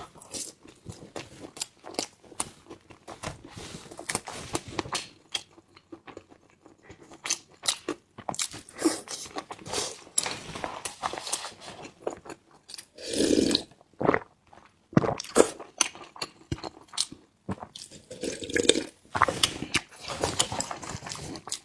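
Close-up eating sounds: a person chewing and crunching food in many short, sharp crackles, with a couple of longer, louder mouth sounds partway through.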